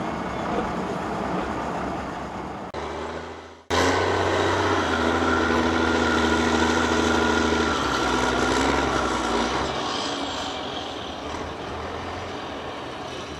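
Trial truck's engine: a rumble for the first few seconds, then after a brief dropout it cuts in loud and steady under load for about six seconds before easing off.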